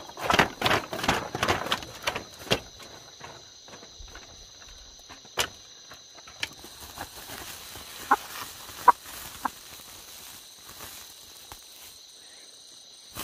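Rustling footsteps on the ground for the first couple of seconds, then scattered light knocks, over a steady high-pitched insect chorus.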